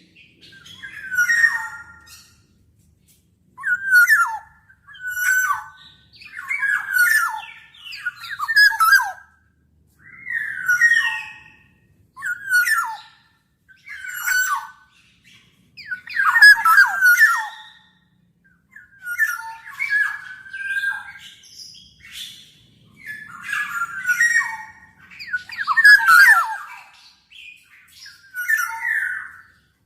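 Black-naped oriole giving short, harsh calls over and over, about one every one and a half to two seconds.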